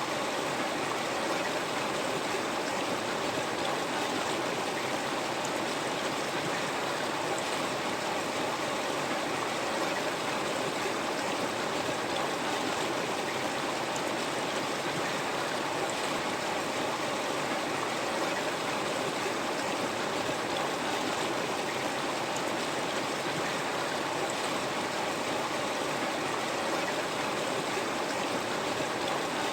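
River water flowing over rocks: a steady, even rushing and burbling that holds without change.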